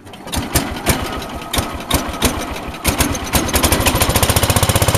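IH Cub Cadet 100 garden tractor's single-cylinder engine cold-starting. The starter cranks it with uneven strokes for about three seconds, then it catches and settles into an even, fast running rhythm. It now runs on ignition fed through a homemade switch wired directly to the coil, bypassing a water-damaged ignition switch.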